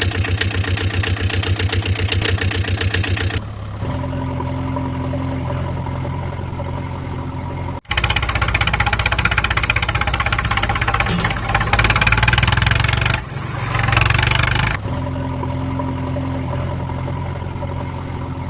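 Vehicle engine sounds in abrupt cut-together segments: a fast, evenly chugging engine, then a steadier idle, then a louder, noisier stretch of revving from about eight seconds in, and back to the steady idle near the end.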